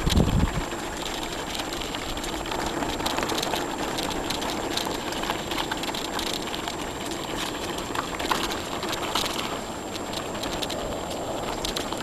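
Bicycle riding over a dirt trail: steady crunching of tyres on gravel, with frequent small clicks and rattles and a low thump at the start.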